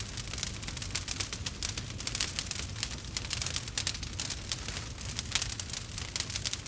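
Wood campfire crackling, with rapid, irregular pops and snaps over a steady low rumble of the flames.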